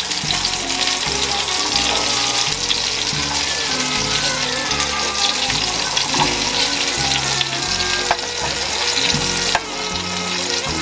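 Tomato slices sizzling steadily as they fry in oil in a pan, with a metal spoon moving and turning them; two sharp clicks of metal on the pan in the last few seconds.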